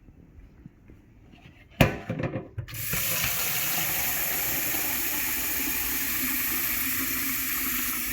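A sharp click and a short clatter, then water running steadily for about five seconds, stopping suddenly.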